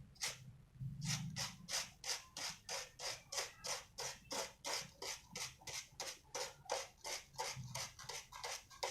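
Kitten scratching and digging in cat litter sand, a steady run of short raking strokes at about three a second.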